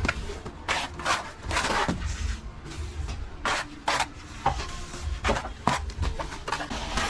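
Plastering trowel scraping across a wall in irregular rasping strokes, some long and some short and sharp.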